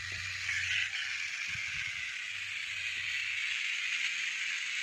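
Battery-powered toy police car switched on and running: its small electric motor and plastic gears whir steadily.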